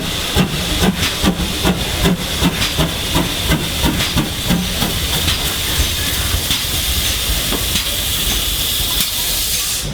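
GWR 2800-class 2-8-0 steam locomotive 2857 hissing steam steadily. A regular knocking, about two to three beats a second, runs through the first half and fades out after about five seconds.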